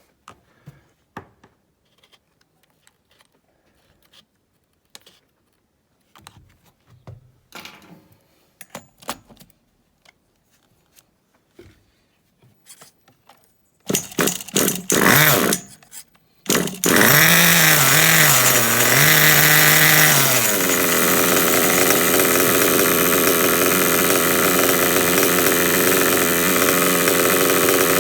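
Light handling clicks, then a small nitro RC buggy engine is spun over on a starter box for about two seconds. After a short break it fires, wavers in pitch for a few seconds, then runs loud and steady.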